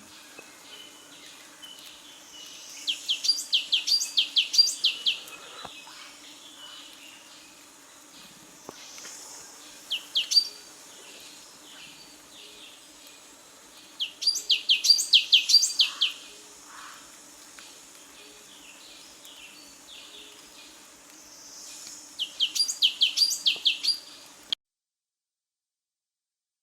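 A songbird singing, four quick phrases of rapid, sharp high notes a few seconds apart, over a faint steady background. The sound cuts off suddenly near the end.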